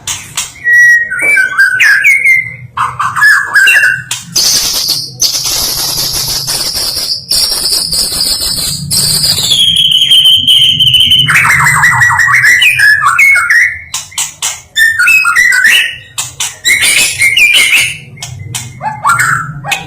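White-rumped shama singing loudly: varied whistled phrases and fast trills, with a long high note that steps down in pitch near the middle, followed by a quick rattling run.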